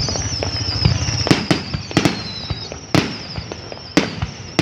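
Aerial fireworks bursting in the sky: sharp bangs roughly once a second, each with an echoing tail, over a continuous crackle and a high, wavering whistle.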